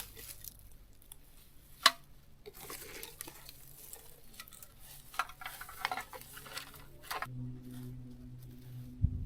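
Rustling and clattering of camp gear being handled, with scattered clicks and a sharp knock about two seconds in. Near seven seconds a steady low hum sets in, with a couple of thumps near the end.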